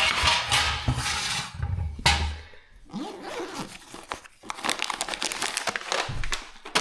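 Crinkling and rustling of something being handled, with many small clicks and knocks.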